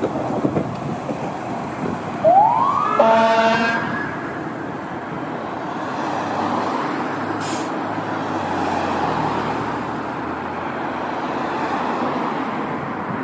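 A fire engine's siren sweeps briefly upward in pitch about two seconds in, overlapped by a horn blast lasting about a second, then the passing truck and road noise run on steadily.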